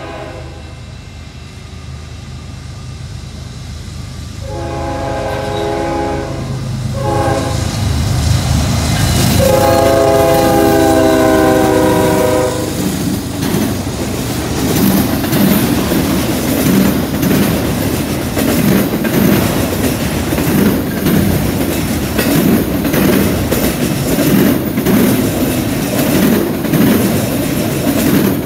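Freight train led by two Canadian National diesel locomotives, a GE ES44DC and an EMD SD70M-2. The lead unit's air horn sounds the end of a grade-crossing signal: a blast cut off at the start, then a long blast, a short one and a final long one. The locomotives then rumble past, followed by the cars rolling by with a steady rumble and a wheel clack about every two seconds.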